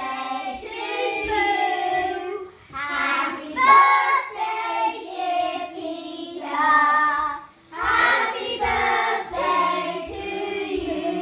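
Voices, a child's among them, singing a song in four phrases with short breaks between them.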